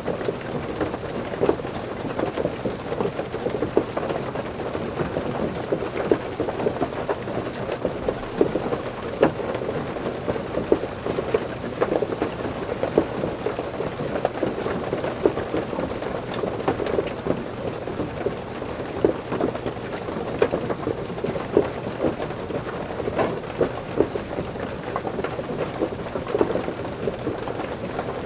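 Heavy rain drumming on a roof: a dense, steady patter with many sharp individual hits throughout, which the uploader takes for ice rain or hail.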